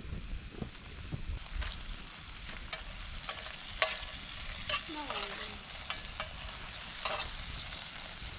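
Cherry tomatoes frying in a pan, a steady sizzle with scattered sharp pops.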